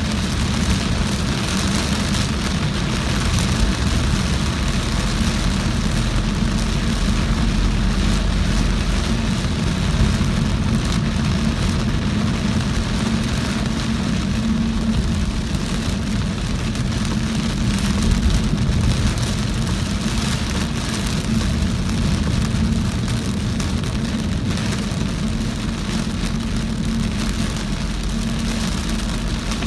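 Car driving in very heavy rain: a steady hiss of rain on the car over a low rumble of engine and road.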